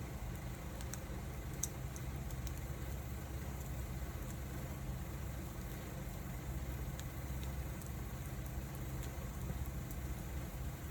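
Wood fire burning steadily: a constant low rush under scattered small crackles and pops from the burning wood.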